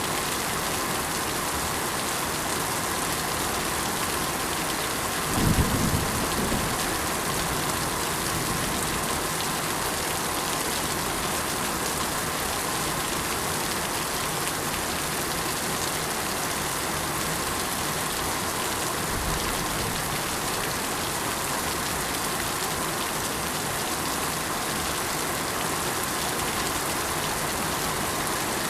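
Steady, even rain falling, a constant hiss. About five seconds in comes a brief low rumble, the loudest moment, and a much fainter one follows later.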